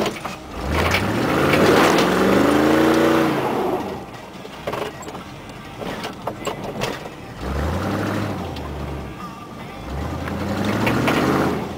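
A vehicle engine revving up and easing off three times.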